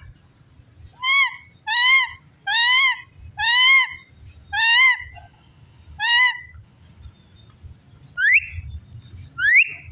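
Parrot calling: a series of six short rising-and-falling calls about a second apart, then two quick upward-sliding whistles near the end.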